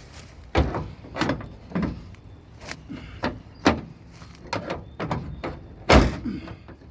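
Bent steel car door being worked and shut again and again: a string of about nine sharp metal clunks and slams, the loudest near the end.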